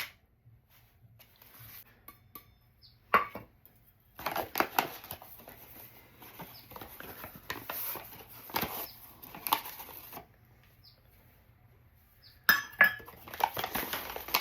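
Kitchen utensils and dishes clinking, knocking and scraping while baking ingredients are measured out: a single knock about three seconds in, a run of clatter from about four to ten seconds, and another burst near the end.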